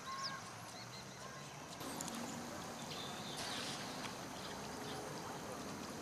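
Birds calling over steady outdoor background hiss: short high calls, then a louder, lower call from about two seconds in.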